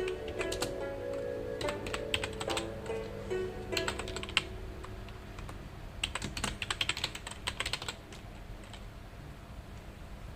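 Typing on a computer keyboard: bursts of rapid key clicks with short pauses between them, over background music whose notes die away about halfway through.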